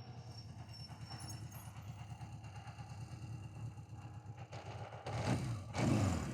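Suzuki GS1000S's 997cc air-cooled inline-four idling through its original exhaust with a steady fast pulse, then two throttle blips about five and six seconds in that rise and fall in pitch.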